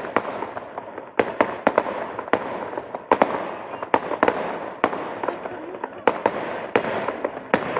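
Fireworks bursting in rapid, irregular succession: many sharp bangs, often several a second, each trailing off into a lingering echo so that the rumble between them never dies away.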